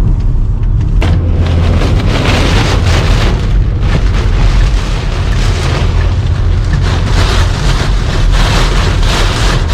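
Heavy rain beating on a moving car, with a steady low rumble from the road and the storm; the rain grows louder and harsher about a second in.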